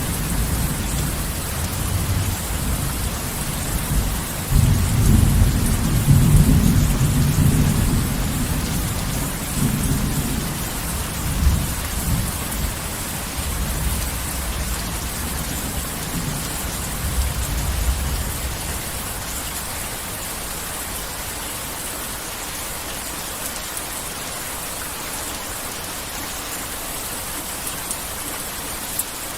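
Heavy rain falling steadily, with a long roll of thunder that builds about four seconds in, is loudest soon after, and rumbles away over the next ten seconds, leaving rain alone.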